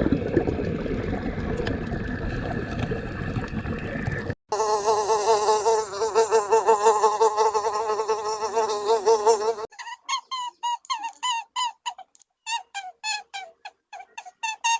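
Cut-together animal sounds: first a noisy stretch, then a steady insect-like buzz with a wavering pitch lasting about five seconds, then a rapid run of short, high, falling chirps, several a second, in two bursts.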